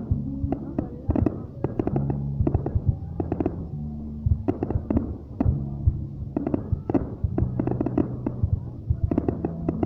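Fireworks going off in quick succession, a dense run of sharp bangs and crackles several times a second, over a steady low droning background.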